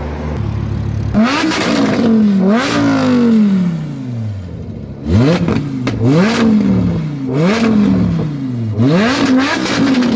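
A car engine being revved in sharp blips, about six times: each rev climbs quickly and falls away more slowly, with a short pause midway.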